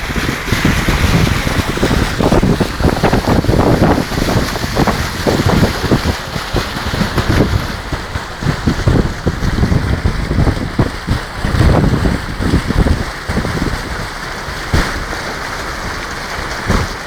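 Wind buffeting the microphone: a loud, uneven rumble and hiss that swells and drops in gusts, easing somewhat in the last few seconds.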